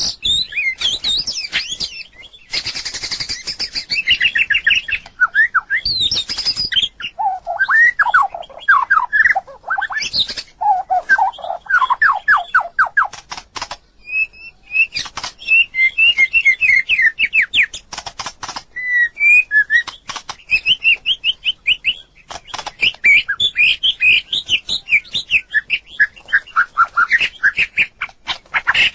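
White-rumped shama singing a varied song of whistled, rising and falling phrases and fast trills of repeated notes, with many sharp clicks scattered between phrases.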